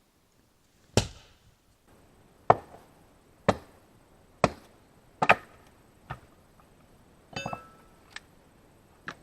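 Firewood being chopped with an axe: about six sharp, separate strikes roughly a second apart. A short clatter follows about seven seconds in, then two lighter knocks.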